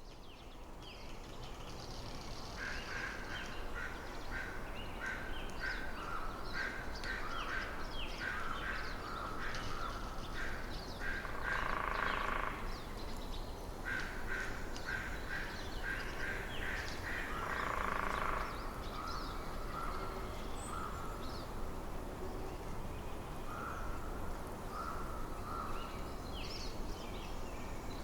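Winter forest ambience fading in from silence over the first couple of seconds: small birds making many short, quick chirps. A larger bird gives louder harsh calls about twelve seconds in and again around eighteen, over a steady low background hiss.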